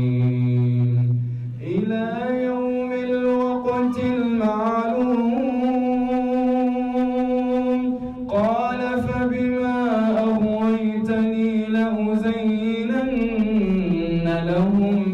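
A man's voice reciting the Quran in a slow, melodic chant. He holds long, steady notes in two drawn-out phrases, with a short breath about eight seconds in.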